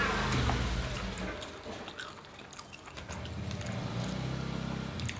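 Motorbikes passing on the road, their engines droning twice: one fading out about a second in, another swelling up near the end. Small clicks and chewing sounds from eating lie under them.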